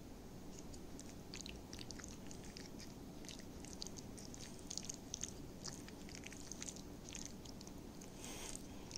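Someone chewing, heard as faint, irregular wet mouth clicks.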